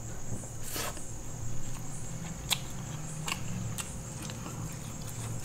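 Close-miked chewing of a mouthful of vegetable biryani, with a few short, sharp wet mouth clicks and smacks.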